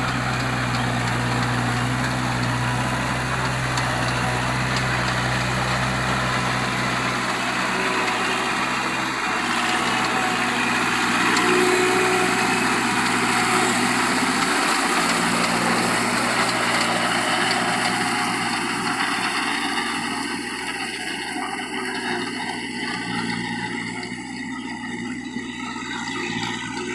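Kubota MU4501 tractor's diesel engine running steadily. Its low hum changes about a quarter of the way in, and the sound grows quieter over the last third.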